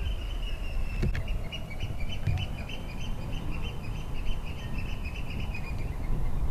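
A bird calling in a rapid series of short high chirps, about four or five a second, slowly falling in pitch and stopping near the end, over a low background rumble. A single sharp click about a second in.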